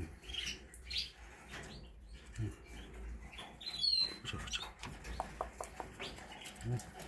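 Canaries chirping: scattered short, high calls, with one loud downward-sweeping chirp about four seconds in and a quick run of short pips soon after.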